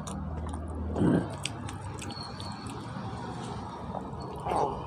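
Close-miked chewing and mouth sounds of a man eating boiled chicken and rice by hand, with small wet clicks throughout and two louder mouth sounds, one about a second in and one near the end. A steady low hum runs underneath.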